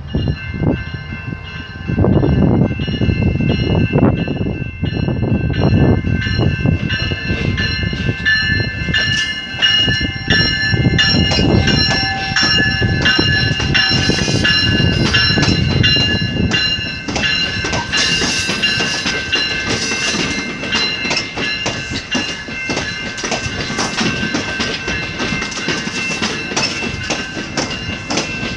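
Commuter train running on the rails with a heavy rumble and clatter, easing off after about seventeen seconds. A steady high squeal from the train carries over it.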